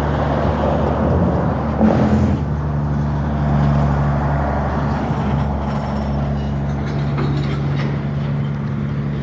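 Norfolk Southern freight train rolling slowly past: a steady low rumble of wheels on rail with a droning hum, and a brief louder knock about two seconds in.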